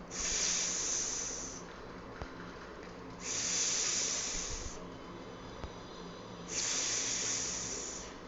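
A woman's voice making the drawn-out phonics sound for the letter s, 'sssss', three times. Each hiss lasts about a second and a half, with short pauses between, like a snake's hiss.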